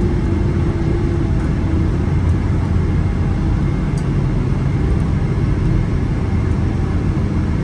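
Cabin noise inside a Boeing 777-300ER rolling on the ground after landing: a steady low rumble from the engines and the airframe on the runway or taxiway.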